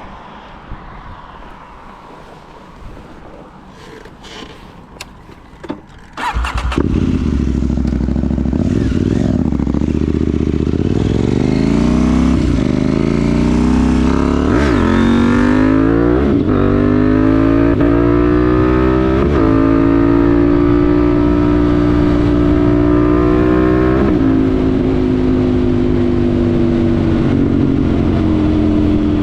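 KTM 790 Duke's parallel-twin engine, breathing through a Remus rear silencer with the catalytic converter deleted: a few clicks, then about six seconds in the engine comes in loudly. It accelerates up through the gears, the pitch climbing and dropping sharply at each upshift about five times, then holds a steady pitch while cruising.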